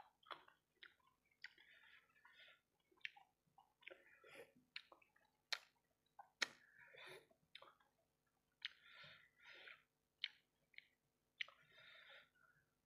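Quiet close-up chewing of sauce-coated fried rice balls: wet, smacking mouth sounds in short irregular bursts, with sharp lip and tongue clicks.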